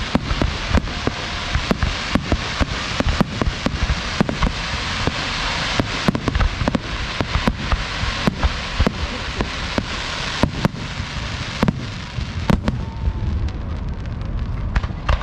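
Fireworks show barrage heard close to the launch site: many sharp bangs a second over a continuous crackling hiss, with deep booms underneath. The crackle eases slightly near the end.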